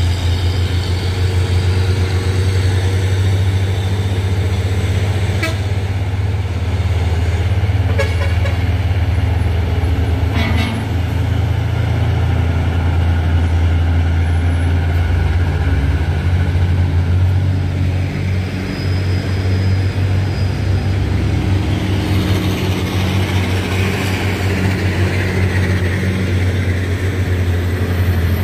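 Heavy truck engine running steadily, with three short sharp sounds about five, eight and ten seconds in.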